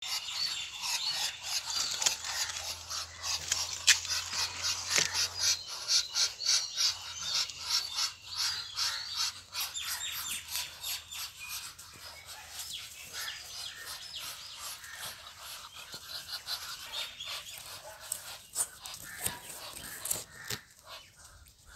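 Small birds chirping in quick, dense runs of short calls, busiest and loudest in the first half and thinning out toward the end.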